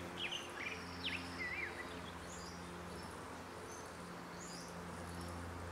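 Birds chirping and calling now and then, most often in the first couple of seconds, over a faint steady low hum.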